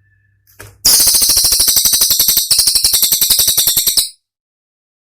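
Cililin bird singing a rapid, high-pitched burst of sharp repeated notes, roughly a dozen a second, starting about a second in, with a brief break midway, then stopping abruptly.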